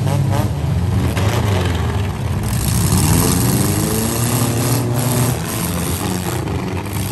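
Several stock compact demolition derby cars' engines running together, revving up and down as they accelerate into one another.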